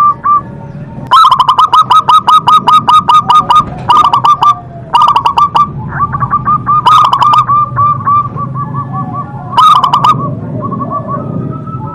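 Zebra doves (perkutut) cooing: several bursts of rapid staccato notes, each burst lasting a second or more, with short pauses between them.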